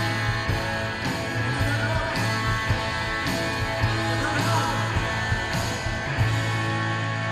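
Live rock band playing: drums keeping a steady beat of about two hits a second under sustained electric guitar chords and bass.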